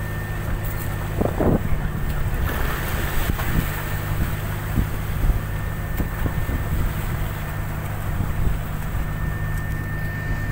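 Strong wind blowing on the microphone at sea in uneven gusts, over the steady low hum of a boat's engine.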